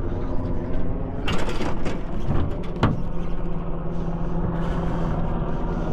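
Fishing reel's drag buzzing steadily as a hooked redfish pulls line off the spool, with a couple of sharp knocks about one and a half and three seconds in.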